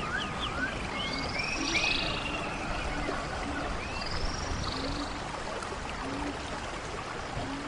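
Rain-forest ambience: birds chirping and whistling in short rising and falling calls, with short low croaks repeating about once a second, over a steady background hiss.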